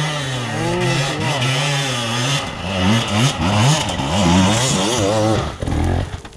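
Enduro dirt bike engine revving up and down repeatedly, the pitch swinging quickly and widely from about two and a half seconds in, then falling away near the end.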